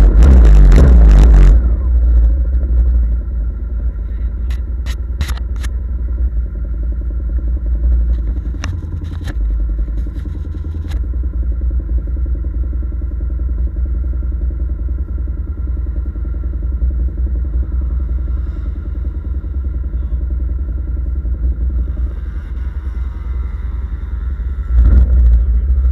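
Off-road vehicle engine running steadily, loud for the first second or so and again near the end. A few sharp clicks or knocks come in between.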